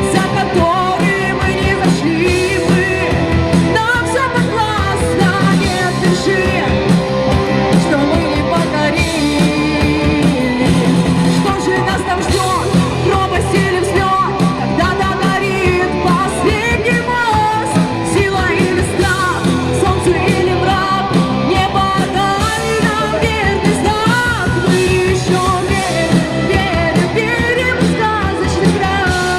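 Rock song playing: a band with a lead vocal singing.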